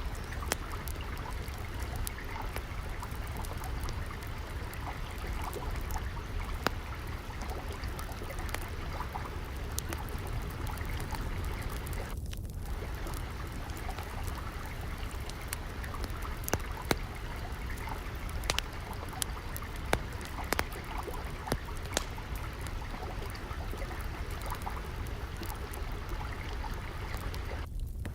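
Steady trickling, flowing water, with the sharp pops and snaps of a crackling wood fire scattered over it.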